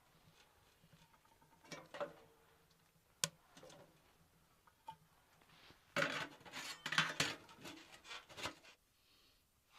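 Small hard objects being handled and clattering, like camp cookware or utensils: a sharp click about three seconds in, then a busy stretch of clinks and rustling lasting about two and a half seconds.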